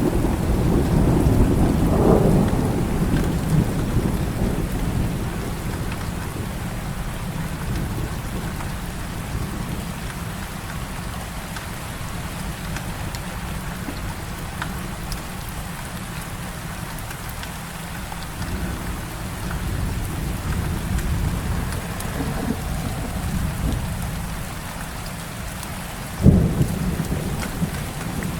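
Heavy rain falling steadily, with a low roll of thunder that dies away over the first few seconds and swells faintly again later. Near the end comes a sudden sharp thunder crack.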